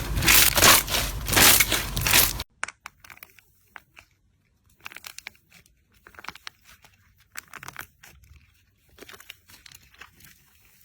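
Slime being pressed and handled, crunching and crackling densely for about the first two and a half seconds, then cutting off abruptly to quieter, scattered crackles and clicks.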